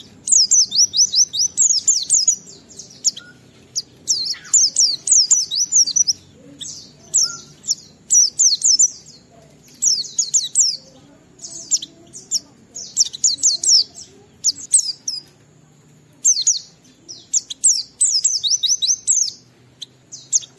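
White-eye (pleci) singing energetically in its long ngalas song. Rapid strings of very high, quickly falling notes come in phrases a second or two long, with short pauses between them.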